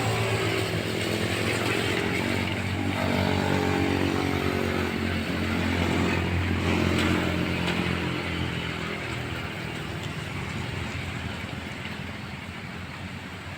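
Daihatsu Gran Max van's engine labouring up a steep climb, a steady low drone that fades away after about eight seconds, over the steady hiss of heavy rain.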